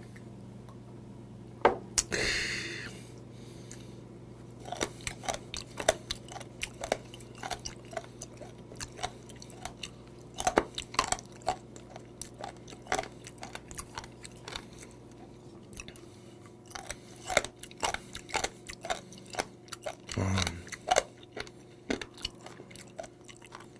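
Close-up chewing of miduduk (warty sea squirt): irregular crunchy clicks and wet mouth sounds, a few a second. A sharp breath out about two seconds in.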